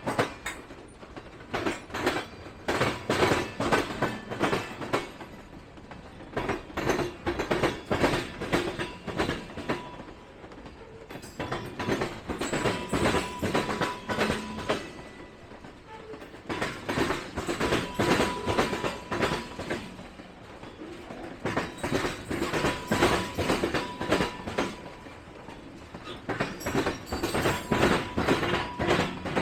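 Train cars rolling past, their wheels clacking over the track in clusters of sharp clicks that come round every few seconds as each car goes by. A faint thin squeal is heard at times.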